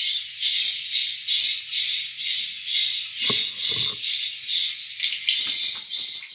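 Swiftlets chirping in a swiftlet house: a rapid, very regular train of high chirps, about two or three a second. Two soft knocks come a little after three seconds in.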